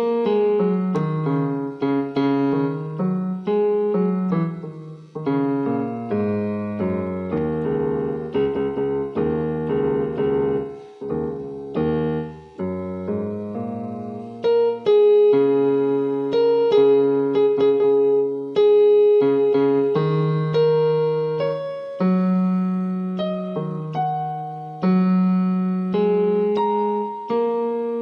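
Background piano music: a slow melody over sustained bass notes.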